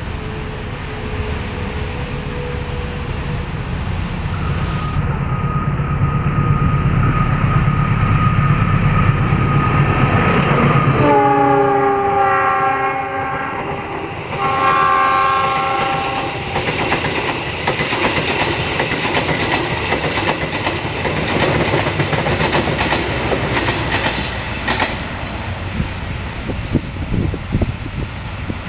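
Indonesian passenger train hauled by a GE diesel-electric locomotive. The diesel engine's rumble grows louder as it approaches, then about halfway through the multi-note horn sounds two blasts, the second shorter. The coaches then pass with a steady clatter and clicking of wheels over the rail joints.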